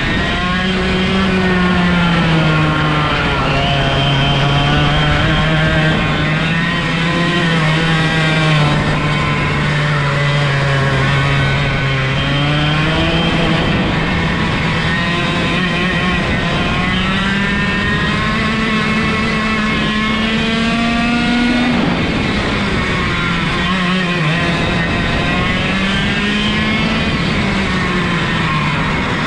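125cc two-stroke go-kart engine at speed, heard close up. The pitch climbs and drops every few seconds as the kart accelerates and slows through corners; with no gearbox or clutch, the revs follow road speed directly.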